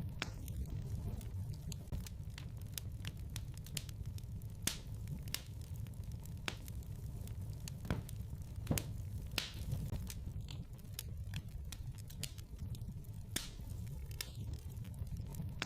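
Wood fire burning in a fireplace: a steady low rumble of flames with irregular sharp crackles and pops, a few a second, some louder than the rest.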